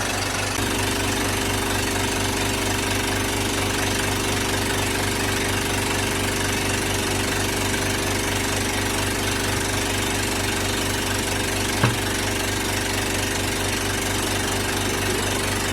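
A motor-driven machine running steadily with a constant hum, its pitch and level stepping up slightly about half a second in; one sharp click about twelve seconds in.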